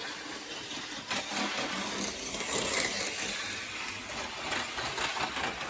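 OO gauge model train running on the layout track: a steady whirr and rattle of the small motor and wheels, a little louder in the middle.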